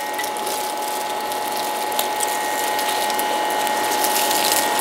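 Pizza crust being chewed close to a clip-on microphone: a dense, continuous crackling.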